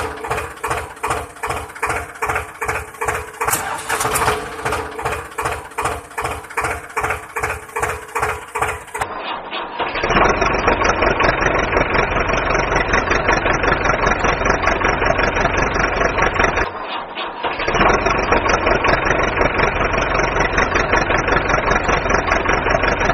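Small motor of a miniature DIY model tractor running, first with a rhythmic pulsing about two to three times a second, then a denser, steady buzz from about ten seconds in that drops out briefly near the three-quarter mark.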